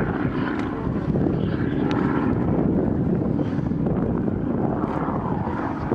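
Curtiss Hawk 75A-1 propeller fighter flying a display pass, its Pratt & Whitney Twin Wasp radial engine running with a steady, loud rumble that swells and eases slightly as it moves.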